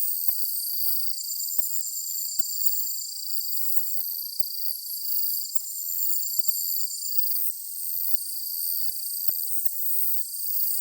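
Evening chorus of chirping insects, crickets among them: several high-pitched trills and rapid pulsed chirps at different pitches overlap without a break.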